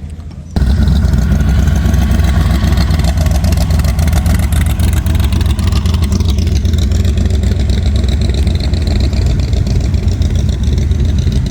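A car engine running loud and revving. It starts abruptly about half a second in, and its pitch eases down around the middle.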